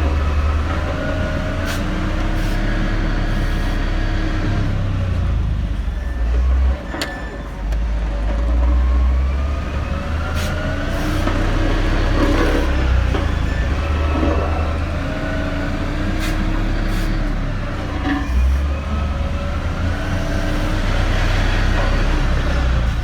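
Heavy diesel engine running, its pitch rising and falling as it revs up and down under load, with a few sharp knocks along the way.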